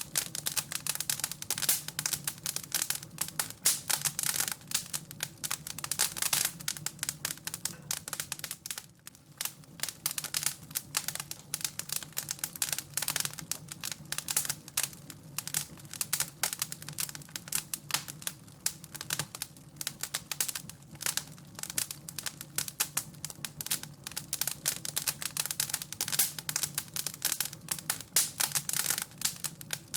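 Wood fire in a fireplace crackling and popping in dense, irregular bursts over a steady low hum, with a short lull about nine seconds in.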